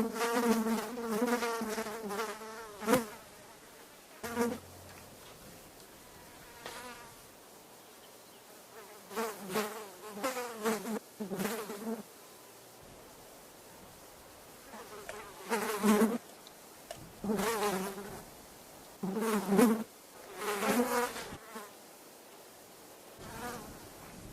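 Flies buzzing: a wavering, high hum that swells up loud as a fly passes close and fades again, in a series of separate passes a second or a few seconds long, with quieter stretches between.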